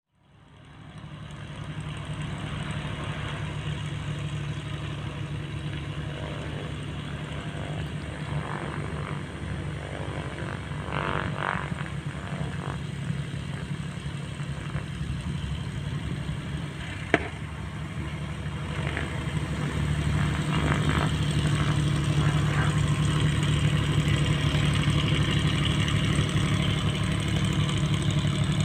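Aircraft engine running steadily, growing louder about twenty seconds in, with a single sharp click partway through.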